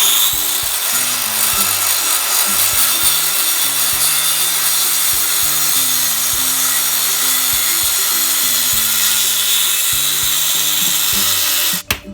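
A power tool working over the rusted metal of a gate, running at a steady pitch and stopping abruptly near the end. Background music plays underneath.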